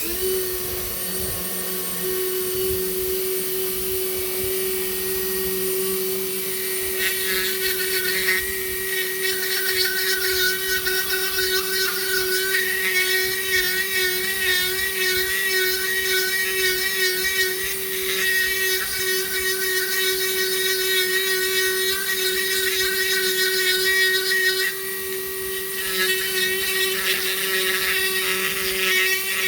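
Dremel flex-shaft rotary tool running with a steady high whine as a Kutzall Extreme flame burr grinds into manzanita wood. The rougher cutting noise comes in about a quarter of the way through and rises and falls as the burr bites, with a brief lull near the end.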